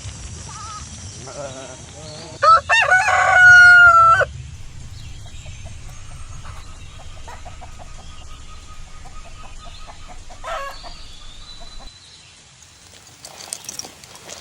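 A rooster crows once, loudly, about two and a half seconds in, a call of nearly two seconds ending on a long held note. Chickens cluck softly before and after it, over a low rumble that fades near the end.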